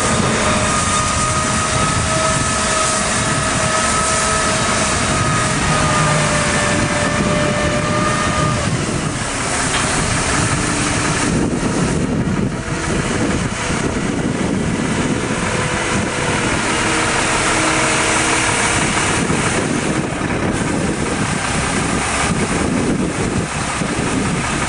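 Mack water truck running, its engine and driveline giving a steady whine over a loud, even rushing noise; the whine drops away about eight seconds in and lower, shifting tones take over.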